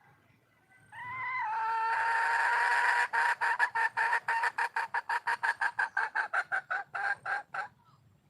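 A wild junglefowl hen giving a mating call. It starts about a second in as one held, slightly rising note, then breaks into a fast run of short, even pulses, about seven a second, that stops shortly before the end.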